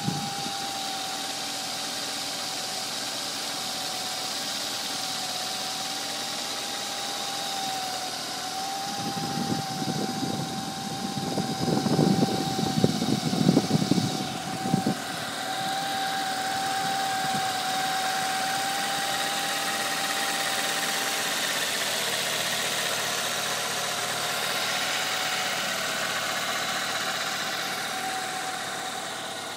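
Car engine idling from a cold start, a steady whine over the idle that drops slightly in pitch about two-thirds of the way through. For several seconds around the middle, a rough crackling rustle covers the idle.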